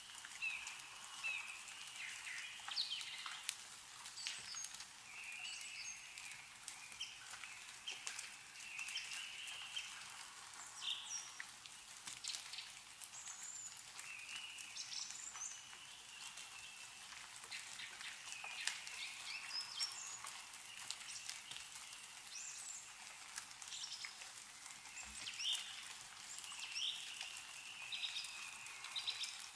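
Meltwater dripping from snow-covered trees, scattered sharp drips and patters, while small birds chirp and call repeatedly.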